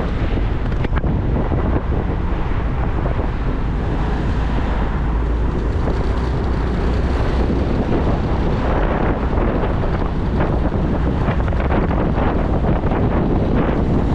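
Wind buffeting the microphone of a moving motorcycle, over a steady rumble of engine and road noise. It grows gustier in the second half.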